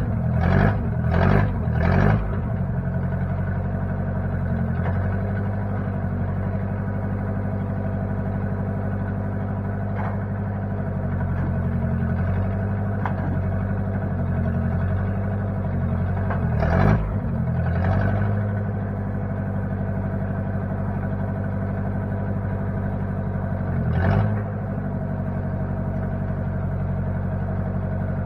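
Engine of a 1960 Case 540 backhoe running steadily. It surges briefly about four times in quick succession near the start, and once each a little past the middle and later on.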